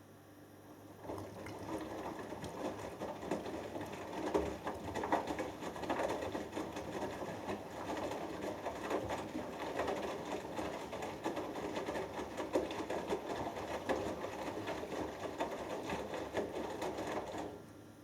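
Front-loading washing machine drum turning one way in a wash tumble, its motor running while the 6 kg load and water slosh and clatter inside. It starts about a second in and stops shortly before the end, with only a low hum on either side.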